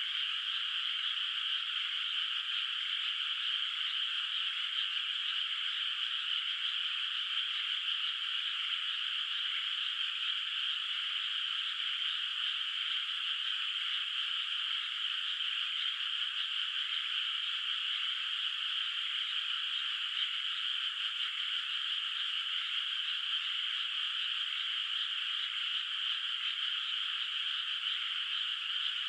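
A dense chorus of many frogs calling at once from a flooded rice paddy. It is a steady, unbroken wash of overlapping calls in a fairly high register, with no low sounds under it.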